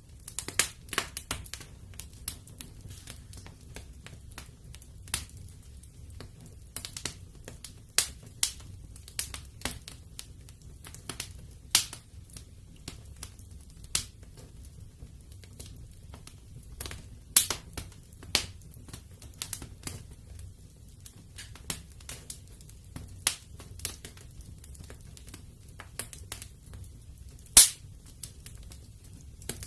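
Wood fire in a fireplace crackling, with irregular sharp pops, the loudest about halfway through and near the end, over a low steady rumble of the flames.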